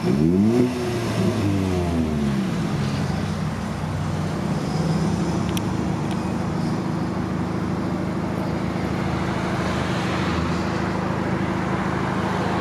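Car engine revving, its pitch rising and falling a few times in the first two seconds or so, then running at a steady speed.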